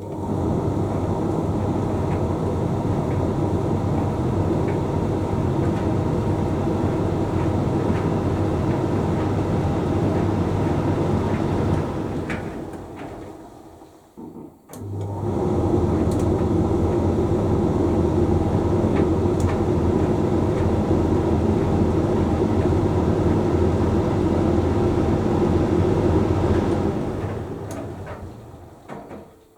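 Hoover Link X Care condenser tumble dryer running mid-cycle: a steady hum of the motor and turning drum. Partway through it winds down to a brief stop and starts up again, as the drum changes direction, then winds down again near the end.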